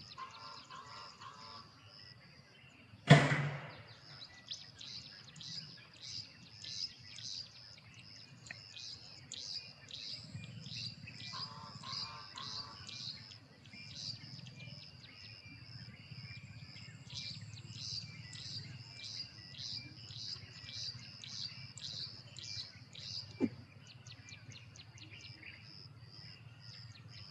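Carolina wren singing, a long run of evenly repeated high chirping notes over a steady high hum. A sharp knock about three seconds in is the loudest sound, with a smaller click near the end.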